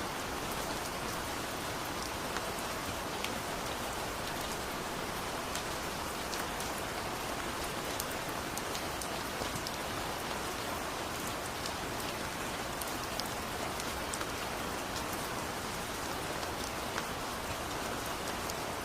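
Steady heavy rain falling, an even rushing hiss with many individual drops ticking sharply through it.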